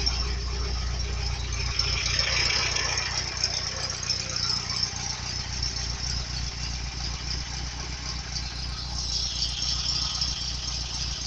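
ZAZ-968M Zaporozhets' air-cooled V4 engine running steadily at idle, with a rattly clatter.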